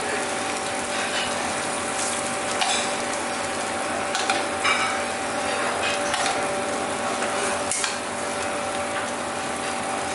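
Beaten egg and dosa frying in an oiled pan with a steady sizzle, under a steady hum. A few short clicks or knocks come and go.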